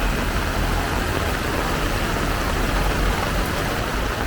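Heavy downpour falling in a steady hiss, with a low rumble underneath.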